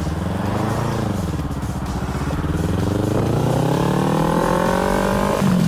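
Motorcycle engine revving up as the bike accelerates, its pitch rising steadily, then dropping suddenly near the end as it shifts up a gear.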